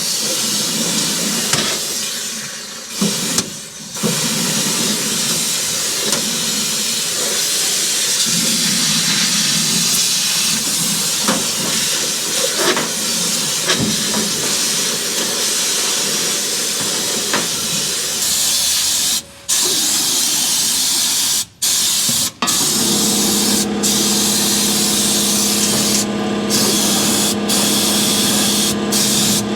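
Pneumatic undercoating gun spraying oil in a continuous hiss, cut by a few brief stops of the trigger about two-thirds through. After the stops a steady low hum joins the spray.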